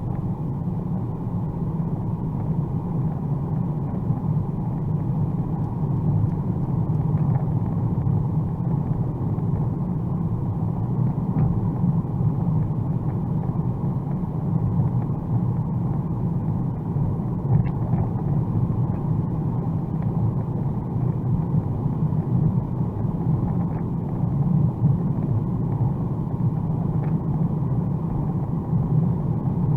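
Steady rumble of a Mercedes-AMG A35's turbocharged four-cylinder engine and tyres on a wet road at motorway speed, heard from inside the car, with a few faint ticks.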